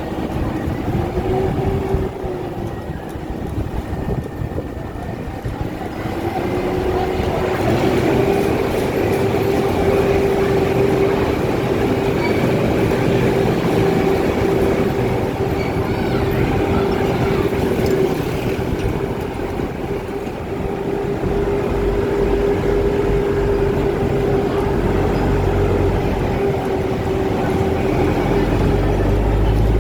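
Courtesy tram running: a steady whine from its drive that rises in pitch about six seconds in and then holds, over continuous rolling rumble.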